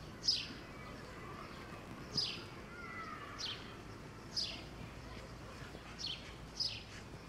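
A small bird calling repeatedly, each call a short high note sliding down in pitch, about one every second or two, over faint steady outdoor background noise.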